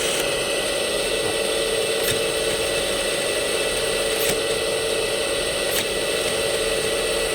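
Radio-controlled Scania 770S 8x8 scale truck's brushless motor and two-speed gearbox running steadily in high gear, a constant whine with a few faint clicks.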